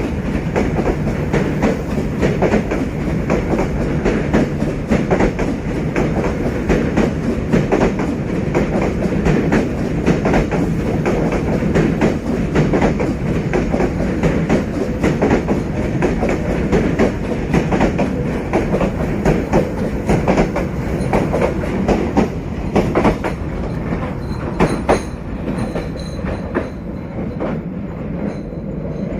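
Passenger train hauled by a D19E diesel-electric locomotive running along the track, its wheels clicking rapidly over rail joints above a steady low rumble. The sound eases slightly near the end.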